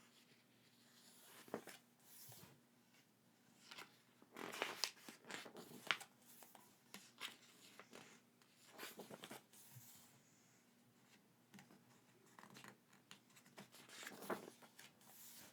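Hands handling and rustling packaging and paper items, a run of irregular short rustles and light clicks, busiest a few seconds in and again near the end.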